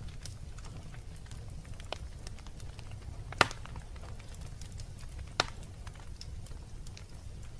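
Wood fire burning in a fireplace: a steady low rumble with scattered small crackles, and two sharp, loud pops, one about halfway through and another two seconds later.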